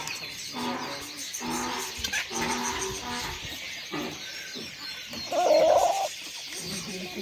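Domestic poultry calling: a string of short calls, with one louder, wavering call about five and a half seconds in.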